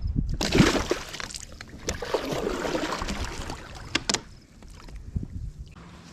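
Water splashing and sloshing around a kayak, with two sharp knocks about four seconds in, as in handling on board.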